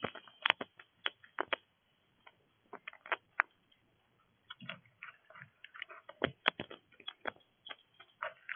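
Irregular sharp clicks and taps at a bird feeder, many of them scattered unevenly, with a short lull around four seconds in.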